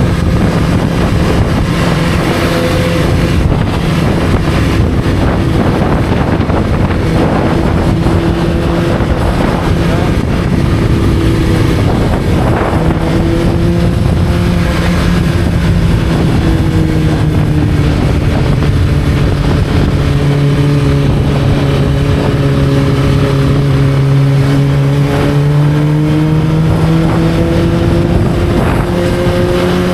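Motorcycle engine running steadily under way, with wind noise on the microphone; the engine note sinks gradually about two-thirds of the way through, then climbs again near the end.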